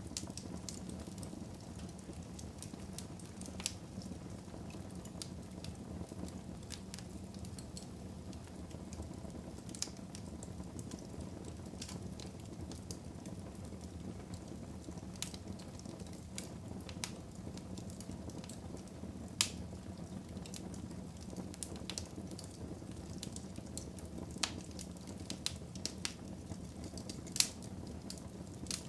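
Wood fire burning in a fireplace: a steady low sound of the flames with frequent sharp crackles and pops. A couple of louder pops come about two-thirds of the way in and near the end.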